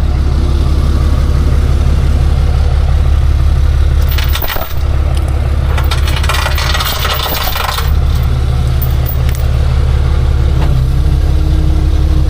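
Truck engine idling steadily, with metallic clinking and rattling over it: a short clatter about a third of the way in, and a longer rattle lasting about two seconds just past the middle.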